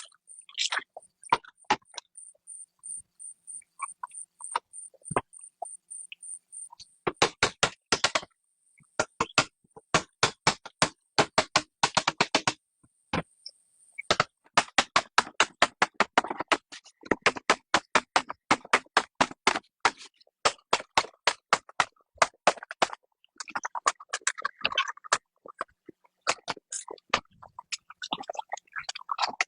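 Runs of sharp, rapid knocks, several a second, broken by short pauses and loudest in the second half. A faint, evenly pulsing high chirp sounds through the first few seconds.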